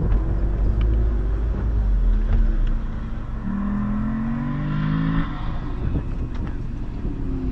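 Car engine running with a deep low rumble, then revving up with a rising pitch for about two seconds, starting about three and a half seconds in.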